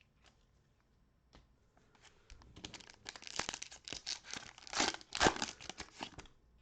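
A trading-card pack wrapper being torn open and crinkled: a dense crackle of plastic that starts a couple of seconds in and lasts about four seconds.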